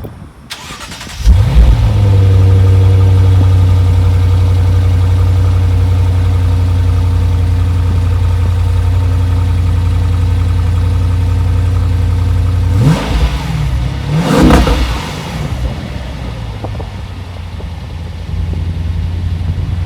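Lexus RC F's stock 5.0-litre V8 cold-started: the starter cranks briefly and the engine catches about a second in with a flare, then runs at a high, steady cold fast idle through the stock exhaust. About 13 seconds in it is revved twice, the second rev higher, and then it settles to a lower idle.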